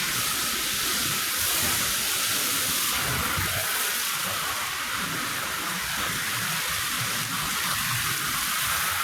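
Steady hiss of water spraying onto a rug as it is rinsed.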